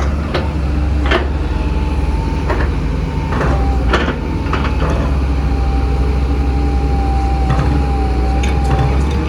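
Big excavator's diesel engine running steadily under load, with a thin steady whine above it. Sharp knocks and clanks come at irregular moments through it, most of them in the first half.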